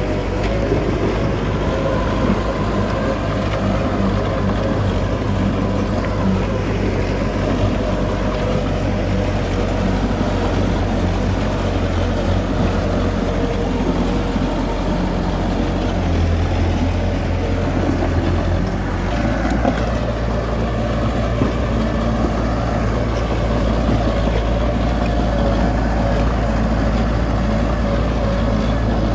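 Heavy diesel engine of earth-moving machinery running steadily. Its note drops about two-thirds of the way through.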